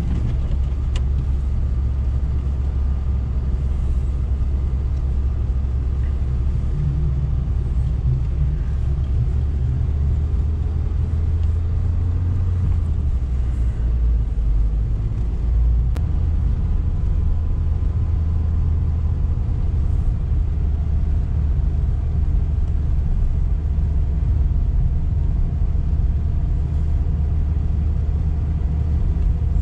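A Lada Niva Travel's four-cylinder petrol engine and drivetrain heard from inside the cabin while driving on snow-covered streets: a steady low rumble.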